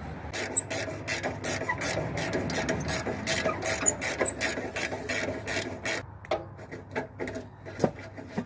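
Hand ratchet wrench being worked back and forth on a rusty exhaust bolt that has just broken loose, clicking in quick, even strokes about three or four times a second, then slowing to a few scattered clicks near the end.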